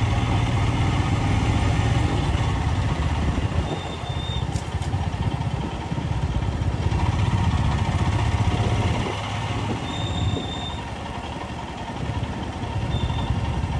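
Royal Enfield Himalayan 411's single-cylinder engine running under way on a rough mountain road, heard from the rider's seat. It drops quieter for a couple of seconds about two-thirds through, then picks up again.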